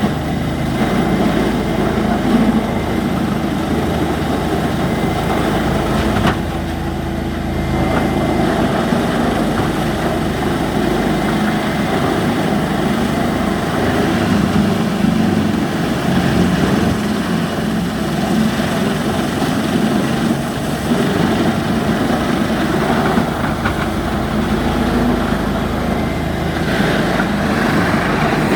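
Crusher machine running steadily: a continuous, loud mechanical noise with an engine-like hum underneath, unbroken and even in level throughout.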